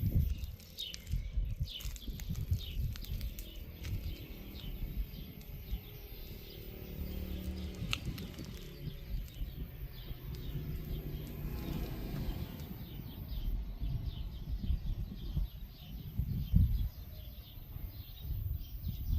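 Small birds chirping over and over in short, quick, falling notes, over an uneven low rumble.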